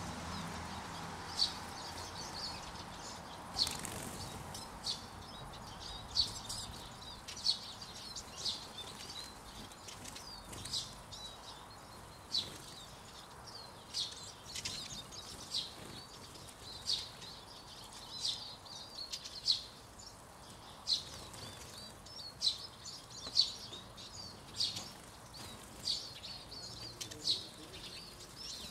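Small finches, mostly Eurasian siskins, giving short high chirps about once a second at a seed feeder.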